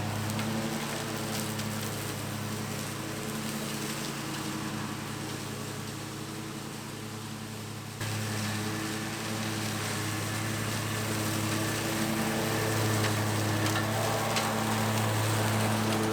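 Zero-turn lawn mower running steadily while cutting brush: an even engine hum with a hiss over it. The level steps up abruptly about eight seconds in.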